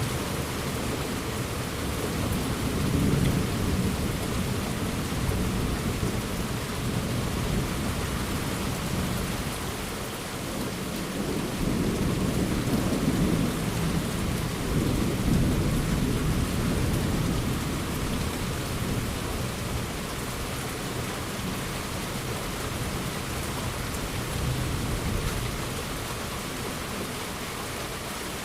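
Steady rain falling, with rolling thunder rumbling in long low swells: one a few seconds in, a longer one in the middle, and a weaker one near the end.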